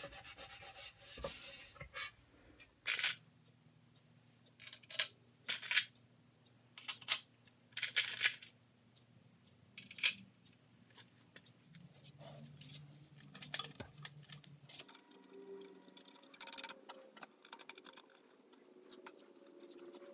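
Scattered short scrapes, rubs and light metallic clinks from table saw parts and screws being handled during reassembly, a second or two apart.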